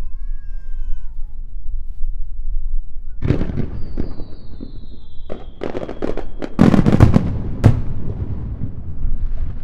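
Aerial fireworks going off: a boom about three seconds in, a high whistle that slowly falls in pitch, then a rapid run of sharp bangs and crackles, loudest around seven seconds in.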